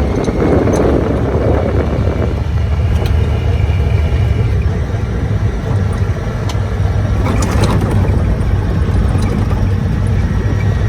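A motor vehicle running steadily on the move, a constant low engine drone with road noise, and a few brief clicks or rattles about seven seconds in.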